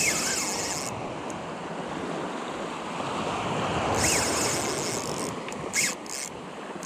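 Surf and wind noise at the water's edge, with short bursts of a high whirring sound near the start and again around four to five seconds in.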